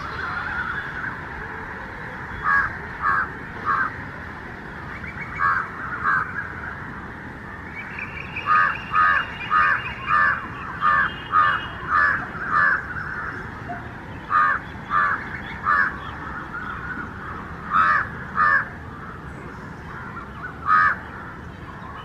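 A bird's harsh calls, short and repeated in groups, with the longest run of about eight calls a little past the middle.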